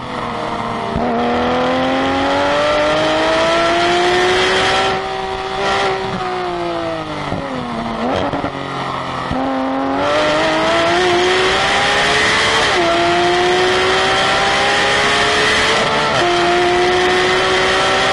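Car engine at full throttle on a race track, its pitch climbing through the gears with quick drops at each upshift. Around the middle it lifts off and the pitch falls as the car slows, then it pulls hard again with two more upshifts.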